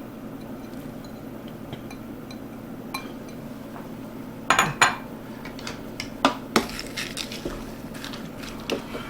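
Utensil clinking and knocking against a cooking pot while frozen peas and carrots are stirred into a thick roux, a dozen or so sharp clinks, the loudest pair about halfway through.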